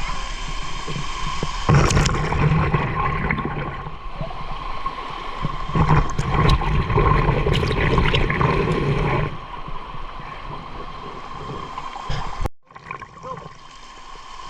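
Muffled water gurgling and rushing around a camera held under the water of a waterfall pool. It grows louder about two seconds in and drops back about nine seconds in.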